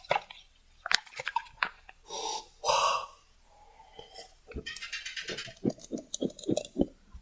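Close-miked mouth sounds of eating: a few sharp clicks, two loud breathy gasps about two to three seconds in, then rhythmic chewing at about four strokes a second over the last few seconds.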